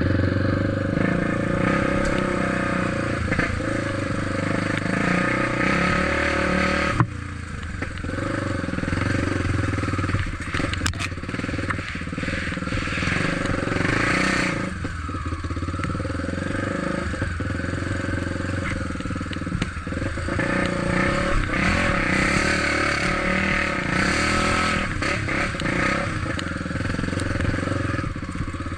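Trail motorcycle engine running steadily while riding, with an abrupt break in the sound about seven seconds in.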